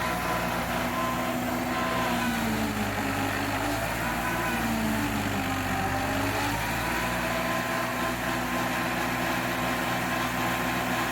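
Fiat 480 tractor's diesel engine running steadily while it drives a chaff cutter. From about two seconds in, the engine's pitch sags for several seconds and then climbs back to its earlier speed.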